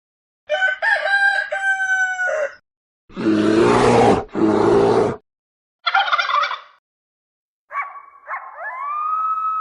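A rooster crowing once, followed by several other short animal calls separated by brief silences, and a long, steady pitched call beginning near the end.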